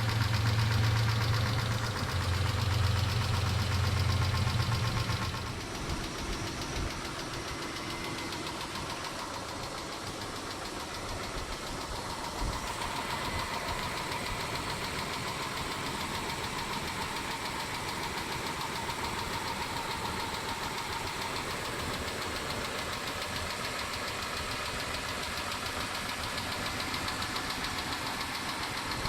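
Mitsubishi 6G72 V6 engine running steadily with a fast, even ticking, the tapping that the owner suspects comes from the hydraulic lifters. A louder low drone stops about five seconds in.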